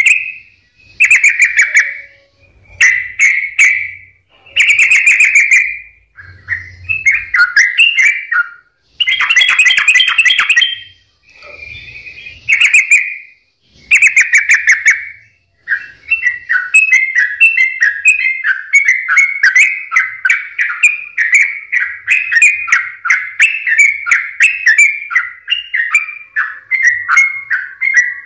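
Yellow-vented bulbul (trucukan) singing in full voice: loud bubbly phrases of a second or two with short pauses between them, then from about halfway a continuous rapid run of chattering notes.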